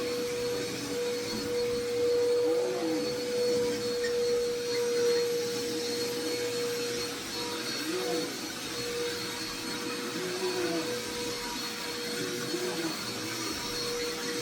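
Vacuum cleaner running steadily with a constant whine, its motor note rising and falling a little every few seconds.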